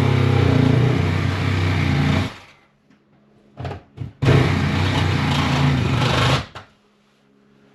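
A handheld power tool's motor running in two runs of about two seconds each, with two quick trigger blips between them, while removing fasteners or cutting into the vent chase.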